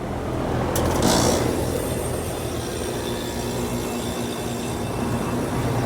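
Trane XR13 heat pump running: a steady low hum with fan noise over it and a brief louder rush about a second in. The technician judges it short on heating capacity.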